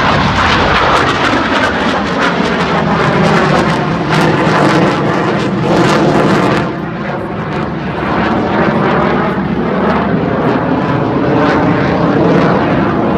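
Blue Angels jet aircraft flying over at close range: a loud, sustained jet-engine noise with a crackling edge. It dips briefly about halfway through, then continues just as loud.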